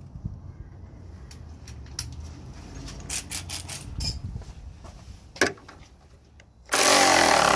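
Light clicks and knocks of tools on metal, then an impact gun runs in one loud burst starting near the end, tightening the new 13 mm nuts.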